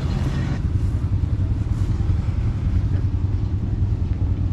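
An engine running steadily close by, with a fast, even beat and no change in speed.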